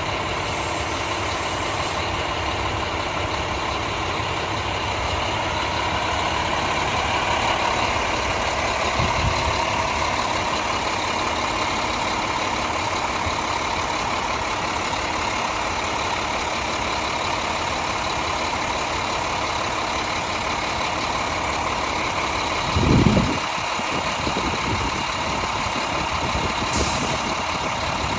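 Fire apparatus diesel engines idling, a steady mechanical rumble, with a short loud low thump about 23 seconds in and a brief hiss near the end.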